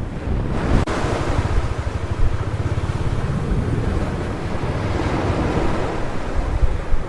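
Sea waves breaking and washing on a beach in a steady rush, with wind buffeting the microphone as a low rumble.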